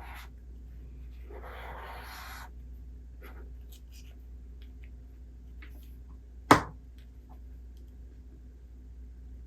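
A book page turning with a short paper rustle, then a single sharp tap on a hard surface about six and a half seconds in, over a low steady hum.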